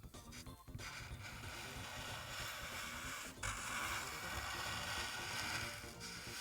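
Alcohol marker nib rubbing back and forth on paper while colouring in an area, a steady scratchy hiss with a brief pause about three and a half seconds in.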